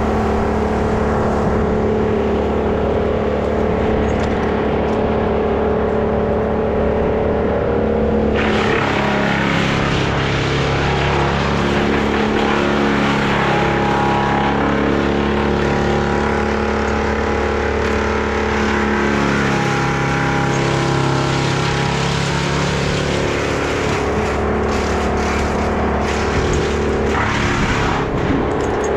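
Stihl 201 two-stroke top-handle chainsaw running steadily; about 8 seconds in its sound turns brighter and harsher, with the pitch wandering, as when it is throttled up and working.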